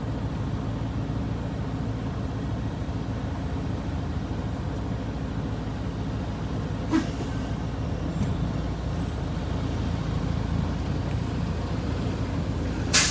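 Semi truck's diesel engine running steadily with a low rumble. There is a brief click about seven seconds in, and a short, sharp burst of noise near the end.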